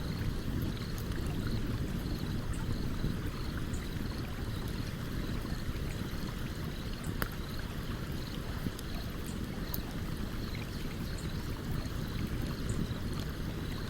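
Stream running steadily with a campfire crackling over it: scattered small pops, one sharper pop about seven seconds in.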